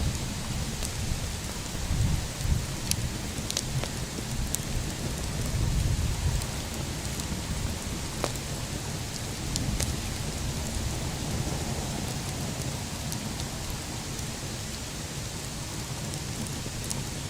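A bonfire's burning wood crackling, with scattered sharp pops over a steady hiss. A low rumble swells twice in the first half.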